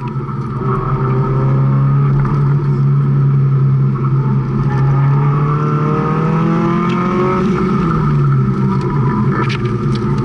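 Mazda Miata's four-cylinder engine at full effort on an autocross run, heard from the open-top cockpit. Its pitch climbs steadily from about four and a half seconds in, then falls back sharply near eight seconds.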